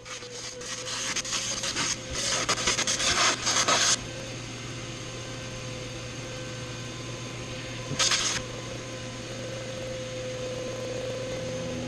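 Rough rasping and rubbing, as of a tool worked against a surface. It comes in quick repeated strokes for the first few seconds, then again in one short burst later, over a steady hum.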